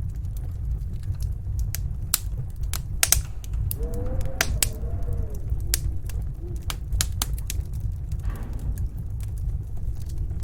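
Wood fire crackling in a fireplace, with irregular sharp pops, over a steady low rumble of snowstorm wind. The wind howls briefly in a wavering tone about four seconds in.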